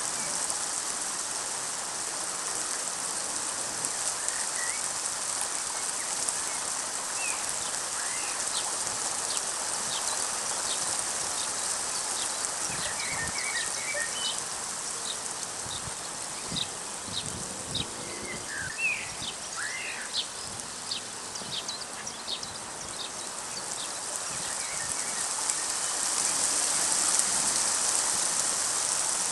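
Steady rain hissing down, growing heavier near the end, with scattered short ticks of drops in the middle.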